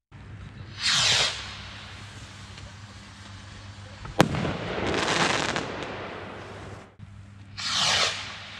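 Consumer fireworks going off: a hissing rush about a second in, a single sharp bang about four seconds in followed by a longer noisy rush, and another hissing rush near the end.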